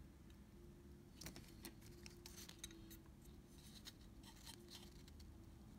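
Faint scattered clicks and scratching of small parts being handled, starting about a second in, over a low steady hum.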